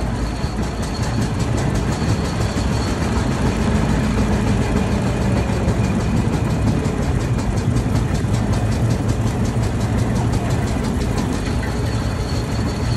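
Single-cylinder engine of a 1903 Cadillac running at low speed in slow traffic, a steady sound with a fast, even ticking of its firing strokes.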